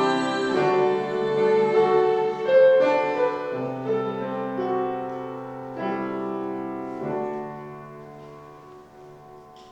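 Instrumental music led by piano with a bowed string instrument, playing slow held chords. The closing bars die away over the last few seconds.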